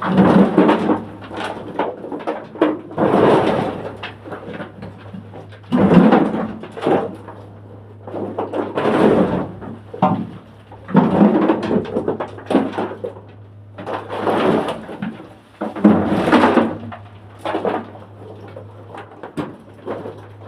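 Shovel scraping into loose mine dirt and tipping it into a bucket, a stroke about every two to three seconds, over a steady low hum.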